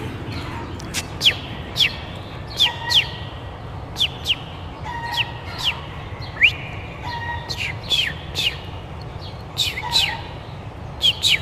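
A small bird chirping: short, sharp downward chirps, often in quick pairs, repeated about every second.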